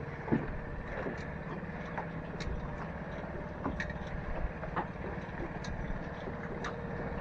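An engine idling steadily in the background, with a few faint scattered clicks and knocks.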